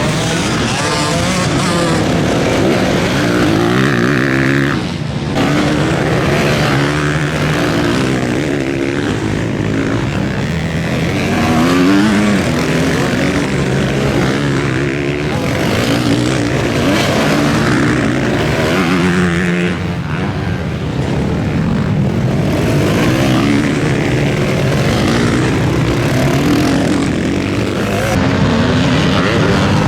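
Several motocross bikes racing, their engines repeatedly rising in pitch as they accelerate and dropping back as they shift or close the throttle.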